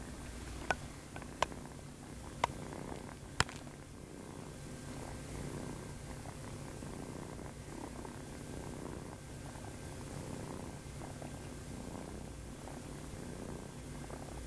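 Cat purring steadily, with four sharp clicks in the first three and a half seconds.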